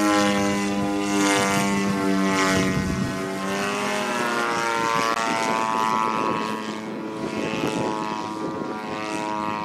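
50cc gasoline engine and propeller of a radio-control EDGE 540T model plane in flight, a steady buzzing drone whose pitch glides down about three seconds in, then continuing a little quieter with shifting pitch.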